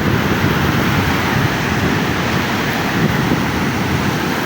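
Ocean surf washing on a beach, a steady rush, with wind buffeting the microphone.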